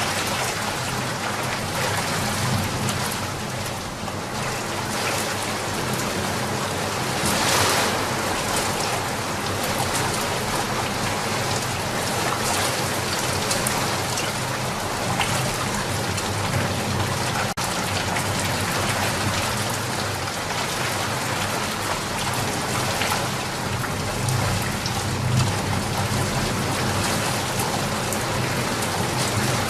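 Steady rain falling, an even hiss of many drops, swelling briefly about seven or eight seconds in.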